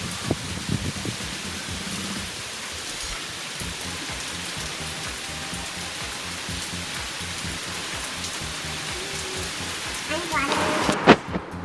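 Heavy rain falling, a steady even hiss, with a few light knocks about a second in. Near the end a voice comes in over it.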